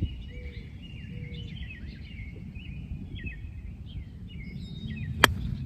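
Small birds chirping in quick, repeated high notes over a steady low wind rumble on the microphone. About five seconds in comes a single sharp crack of a golf club striking the ball.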